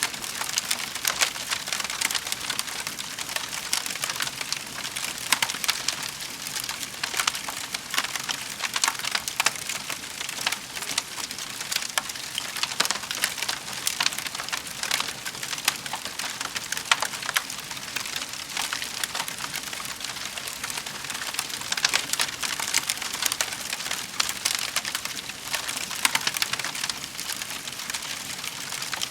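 Wood fire in a fireplace burning, with a steady hiss and dense, constant small crackles and snaps.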